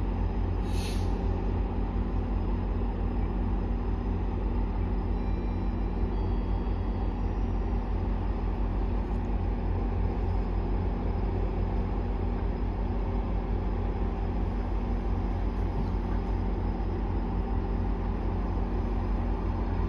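GO Transit diesel commuter train running at a station: a steady low diesel drone with a constant hum, and one short hiss of air about a second in.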